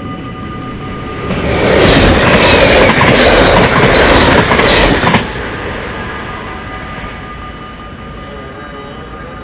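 Level-crossing warning bells ringing steadily, with a train passing through the crossing about a second in. The passing is loud for about four seconds, with rhythmic wheel clatter, then cuts off and leaves the bells ringing.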